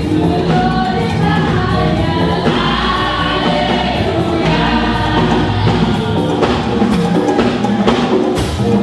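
A choir singing a gospel song with musical accompaniment; sharp drum beats join in during the second half.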